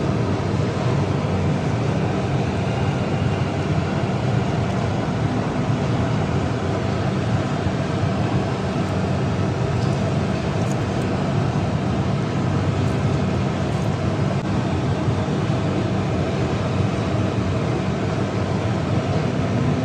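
Diesel engine running steadily: an unbroken low rumble at an even level.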